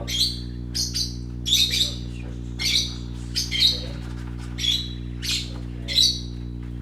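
Small pet parrots chirping: repeated short, high chirps, about one or two a second, over a steady low hum.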